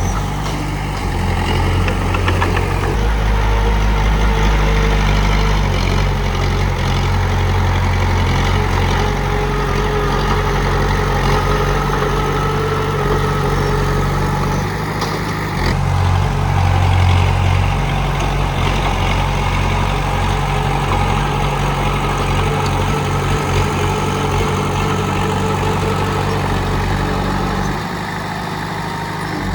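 Komatsu D31P bulldozer's diesel engine running steadily, its note shifting a few times as the load changes, and dropping quieter near the end.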